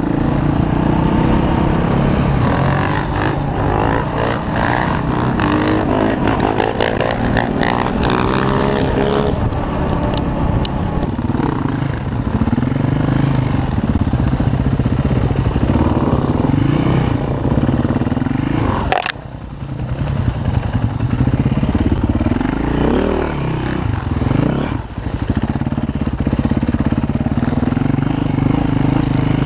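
Single-cylinder four-stroke KTM EXC enduro bike engine being ridden off-road, revving up and down as the throttle opens and closes, with a short drop about nineteen seconds in.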